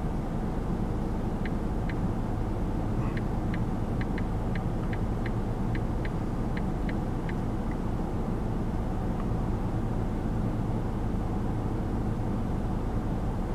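Steady low rumble inside a stationary car's cabin, typical of the engine idling. From about a second and a half in, a run of about a dozen short, high ticks comes at two to three a second, then stops.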